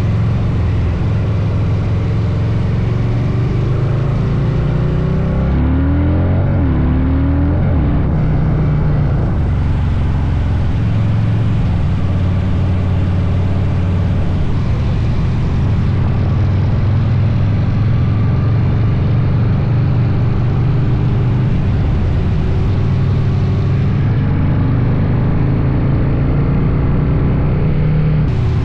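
Harley-Davidson Dyna's V-twin engine running while riding on the road, its pitch rising as it accelerates about six seconds in and again near the end.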